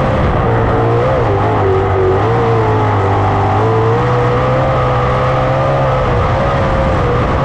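410 sprint car V8 engines running flat out on a dirt oval in a loud, steady drone, the pitch wavering and dipping slightly as the cars work through the turns.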